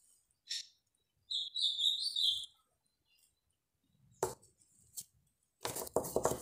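A short burst of high bird chirping about a second in. Near the end, a quick run of clicks and rustles as small clay pieces are handled.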